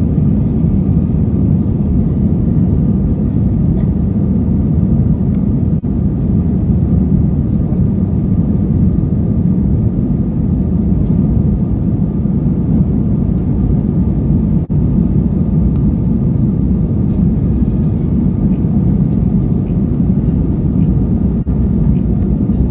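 Steady low rumble of a vehicle on the move, constant throughout with a faint steady whine above it.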